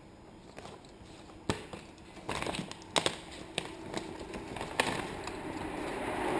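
Vinyl wrap film being handled and pressed onto a motorcycle's plastics: scattered sharp taps and crinkles. A hiss grows steadily louder toward the end.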